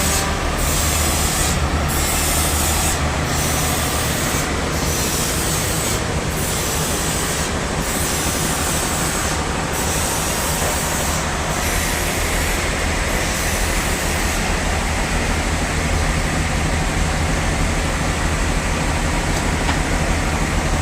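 Sawmill saw running and cutting through a large log: a loud, steady machine noise over a low motor hum. For the first two-thirds the high hiss dips about every second and a half, then it runs on evenly.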